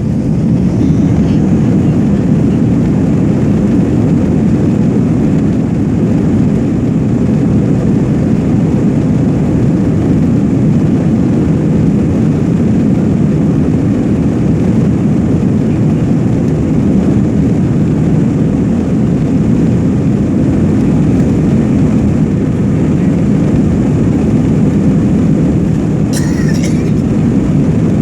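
Jet airliner cabin noise during the takeoff run: engines at takeoff power and the aircraft rumbling, swelling at the start and then holding as a loud, steady deep roar. A brief higher-pitched sound stands out near the end.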